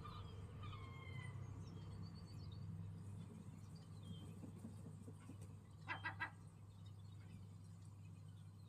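Small birds chirping, with short gliding chirps and a brief trill, then three quick loud calls in a row about six seconds in, over a steady low hum.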